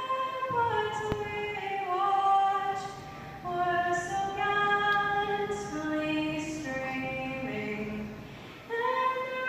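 Music: a woman singing a slow melody in long, held notes, phrase by phrase.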